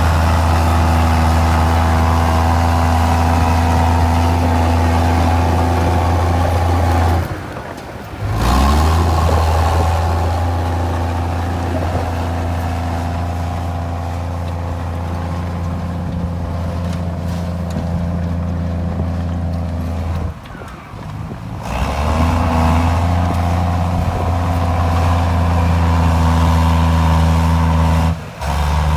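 Komatsu D53E bulldozer's diesel engine running steadily with a low, even hum. The sound drops away briefly about a quarter of the way in, again about two-thirds through, and once more just before the end.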